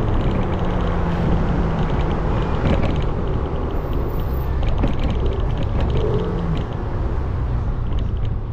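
A 300 cc motorbike's engine running while riding, under a steady rush of wind and road noise.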